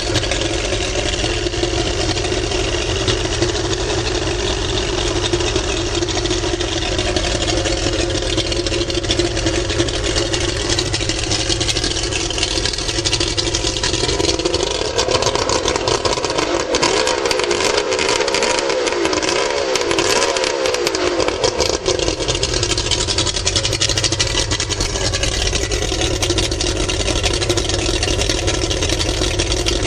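2002 Mercury 150 hp two-stroke V6 outboard running at a steady idle. Past the middle its note rises and wavers for several seconds as the throttle is worked, then it settles back to idle.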